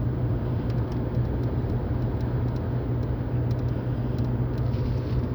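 Car engine and road noise, a steady low hum with no change in pitch.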